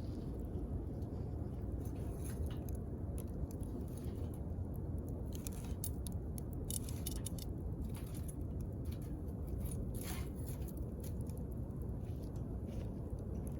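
Wood fire burning with a steady low rush and scattered sharp crackles and pops, most of them through the middle of the stretch.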